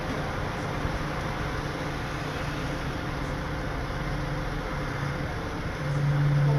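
Tow truck engine running steadily with a low hum, getting louder near the end.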